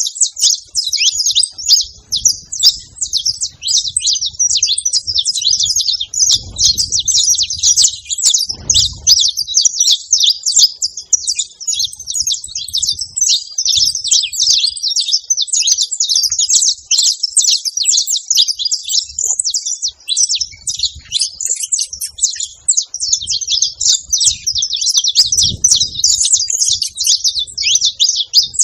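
Saffron finch singing without a break: a dense, fast stream of high, sharp chirping notes.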